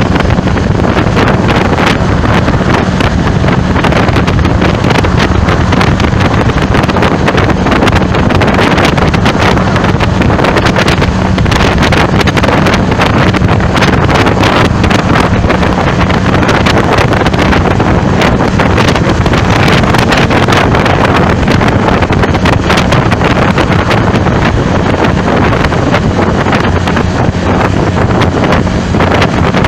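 Loud, steady wind noise buffeting the microphone, with a steady low hum underneath.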